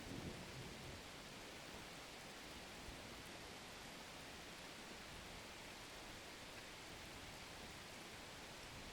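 Steady, soft hiss of falling rain, with a low rumble fading away within the first second.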